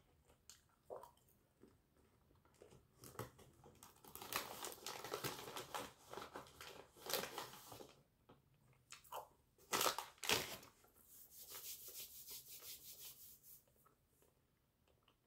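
A person chewing and crunching Oreo cookie-coated popcorn in irregular bursts with short pauses, with crinkles from the snack bag.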